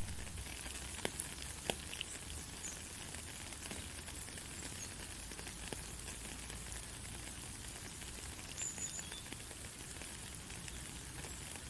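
Steady rain falling, a dense hiss of pattering drops with a couple of sharper drips about a second in.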